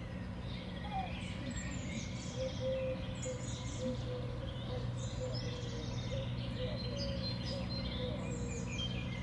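Small songbirds at a winter seed feeder chirping and calling, many short high calls overlapping throughout, over a steady low hum.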